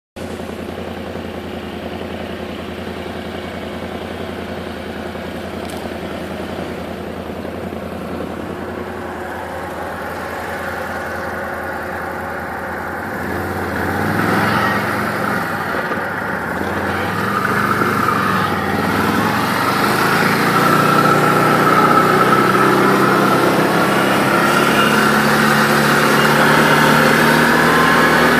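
ATV on snow tracks running steadily at first, then getting louder about halfway through, its engine note rising and falling as it is revved and driven, with a higher whine near the end.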